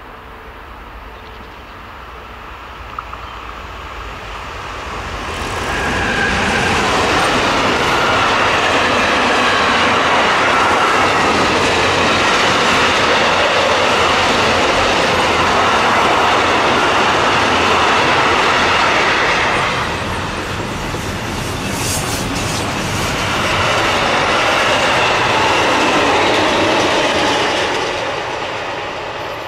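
A train passing close by on the rails, with loud wheel-and-rail noise. It builds up a few seconds in and stays loud for a long stretch, dips briefly, swells again, then fades away near the end.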